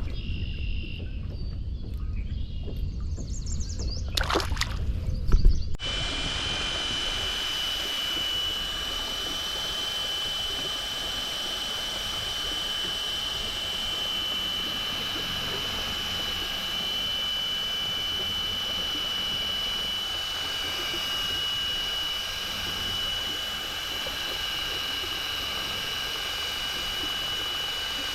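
Low rumble of handling and knocking on the kayak, with a loud knock about five seconds in. Then water rushing past the hull under a steady high whine: the cordless drill that drives the kayak's propeller running at constant speed.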